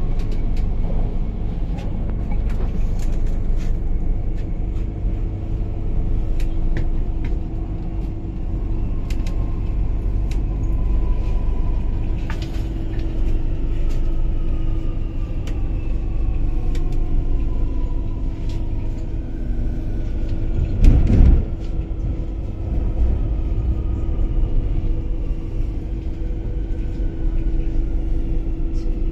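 South Island Line S-Train running, heard from inside the car: a steady rumble with a faint electric motor whine that rises in pitch at first, then falls as the train slows into a station. A single loud thump comes about two-thirds of the way through.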